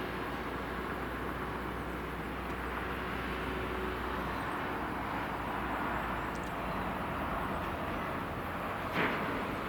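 Steady, even rush of distant jet engine noise at an airport, with a short sharp click about nine seconds in.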